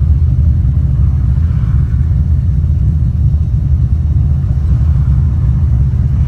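Datsun 240Z's 7.0-litre LS V8 with individual throttle bodies running, a loud, steady low rumble.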